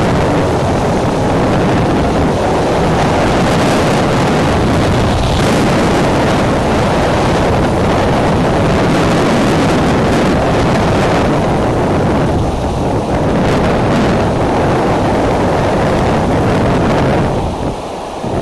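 Strong gusting wind buffeting the nest camera's microphone: a loud, continuous rushing rumble, easing briefly about a second before the end.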